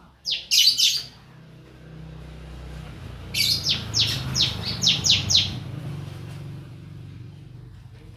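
Grey-cheeked bulbul (cucak jenggot) calling: a quick burst of high notes about half a second in, then a run of about seven sharp, falling notes. The bird is a young 'bahan' not yet in full song.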